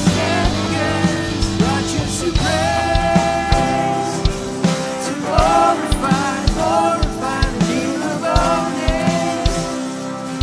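Live worship band playing: held chords, regular drum hits and a melody line bending over the top.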